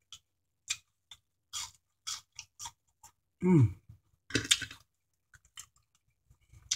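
Close-mic chewing of sautéed green beans: soft wet clicks and smacks of the mouth. About three and a half seconds in there is a short falling hum of the voice, and a brief crackle follows just after.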